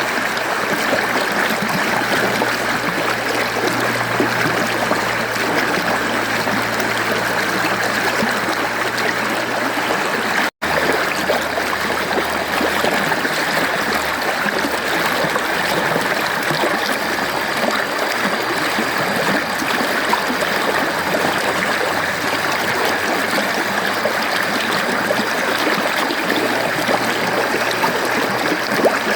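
Mountain stream flowing and splashing over rocks, a steady rushing and trickling of water. A split-second break in the sound comes about ten seconds in.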